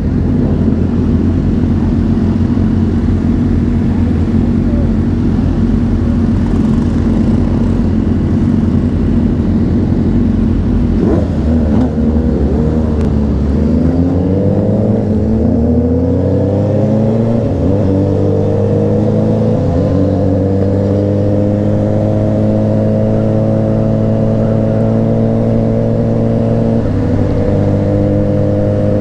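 Honda CBR600RR inline-four engine on the move: it runs steadily, drops in revs around twelve seconds in, then climbs gradually in pitch over several seconds as the bike accelerates and settles at a steady speed.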